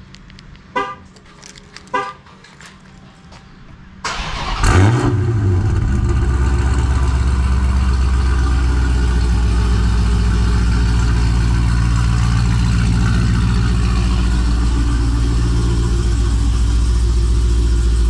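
Chrysler 300 remote-started: two short horn chirps, then about four seconds in the engine cranks and fires with a brief rise in revs before settling into a steady idle.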